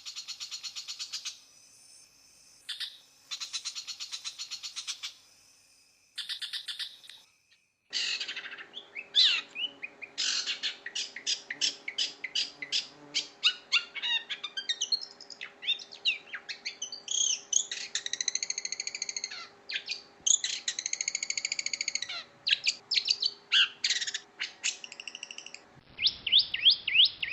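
Long-tailed shrike (cendet) singing. It opens with several bursts of rapid, buzzy trills. From about eight seconds in comes a varied, chattering run of sharp chirps, rattles and arched whistled phrases, and near the end a fast repeated chirp.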